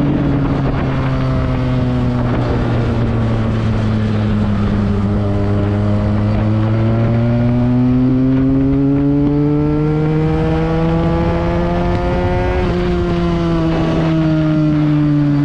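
Benelli TNT 300's parallel-twin engine through an aftermarket Akrapovič exhaust, riding under load: the engine note sinks over the first few seconds, climbs slowly for about ten seconds, then drops suddenly about thirteen seconds in and eases lower.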